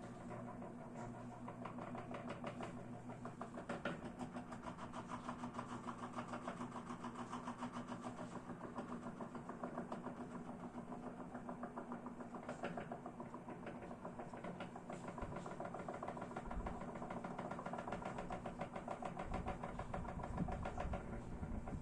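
Ventisol VP-60 chrome 160 W wall fan running: a steady motor hum with the air noise of the blades, pulsing fast and evenly throughout.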